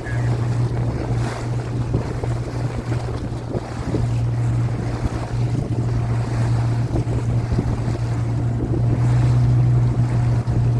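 A boat's engine running steadily with a low, even hum, with wind buffeting the microphone and water noise over it.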